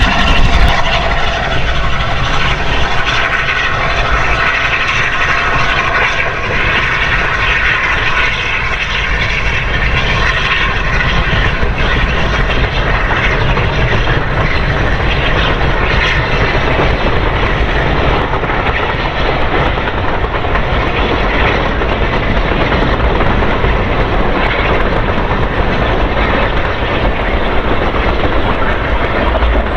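A steam-hauled train passing close by, a loud steady rumble of the train running along the track.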